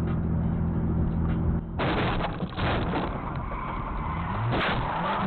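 Steady low drone of a vehicle engine. About two seconds in it cuts abruptly to louder road noise, with several sharp knocks and short rising engine notes.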